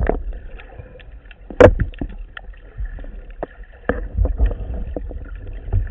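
Water sloshing and rumbling around a spearfisher's action camera, with scattered small clicks and one sharp knock about a second and a half in.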